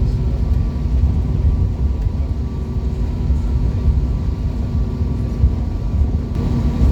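Airbus A321neo passenger cabin with the jet engines running: a steady low rumble with a constant engine hum, which grows a little stronger near the end.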